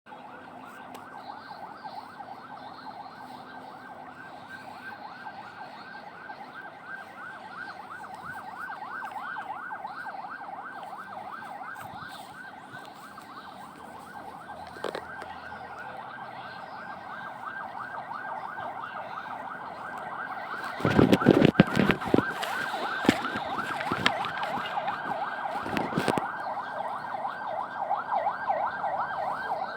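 A siren sounding in a rapid, repeating yelp that rises and falls several times a second. A few loud knocks break in about two-thirds of the way through and once more shortly after.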